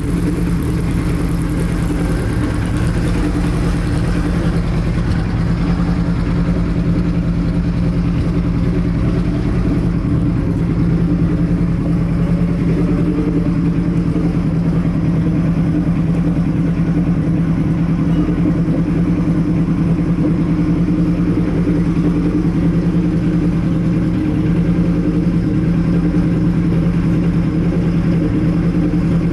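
Kawasaki Z1B's air-cooled 903 cc inline-four idling steadily through SKS short pipes with straight-through silencers.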